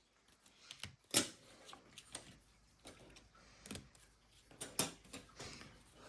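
Trading cards being handled: scattered clicks, snaps and light taps as cards are flicked through and set down. The sharpest snaps come about a second in and again near five seconds.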